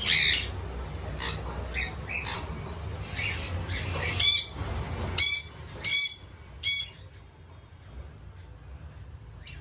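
Small parrots squawking: a loud call right at the start, then a run of short, shrill squawks between about four and seven seconds in, and quieter after that.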